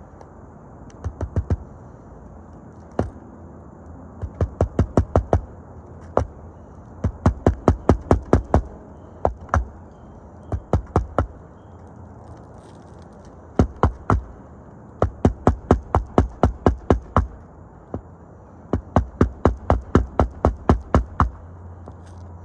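Hammer strikes in quick runs of several blows, about five a second, with short pauses between runs, typical of hand-nailing asphalt roof shingles.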